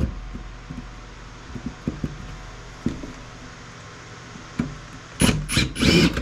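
Light clicks and taps of tools on a circuit board, then near the end three short, loud rasping bursts as a MOSFET is worked loose from the board, over a steady low hum.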